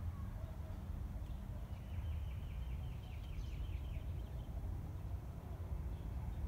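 A bird gives a quick run of about ten short, sharp notes about two seconds in, with a few fainter chirps around it, over a steady low rumble.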